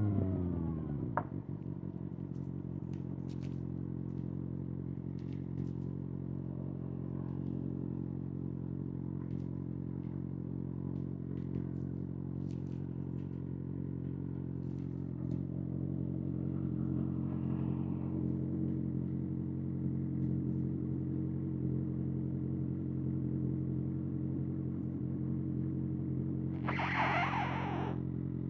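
Kawasaki ZX-6R inline-four engine idling steadily through an SC-Project SC-1R exhaust, the revs dropping back to idle in the first second. A brief rasping noise comes near the end.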